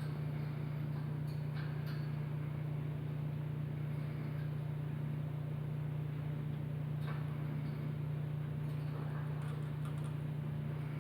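A steady low hum, with faint scattered ticks and clicks from a hamster drinking from its water bottle.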